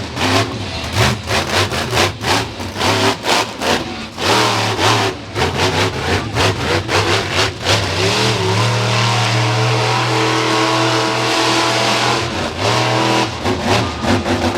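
Monster truck engine revving hard, throttle stabbed on and off in quick choppy bursts, then held at high revs for about five seconds past the middle before chopping again.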